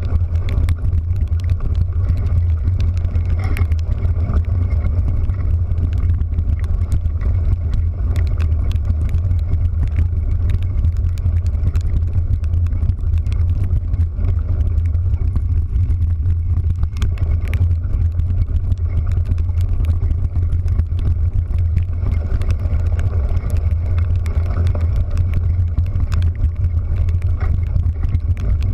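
Steady low rumble of a vehicle driving, with an even hiss and scattered faint ticks over it.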